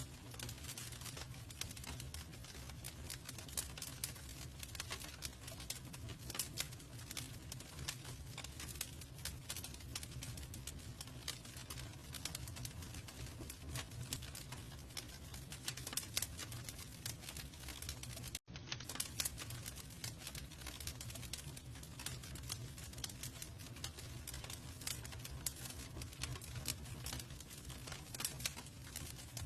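Campfire crackling: dense, irregular small pops and snaps over a low steady rumble of burning wood, with a momentary dropout about two-thirds of the way through.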